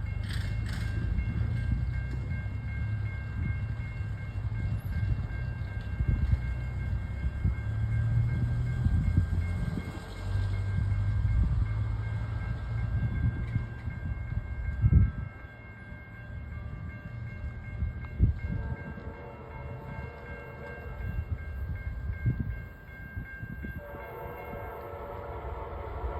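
Low rumble of an approaching Amtrak passenger train, then its horn sounding as it nears: a chord blast starting about 18 seconds in and a louder one from about 24 seconds in.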